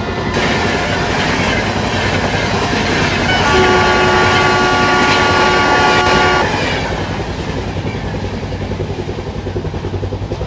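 Express train hauled by a WAP-7 electric locomotive rushing past, wheels clattering rhythmically over the rail joints. About three and a half seconds in, the locomotive's horn sounds a loud, steady multi-tone chord for about three seconds, then cuts off while the coaches keep clattering by.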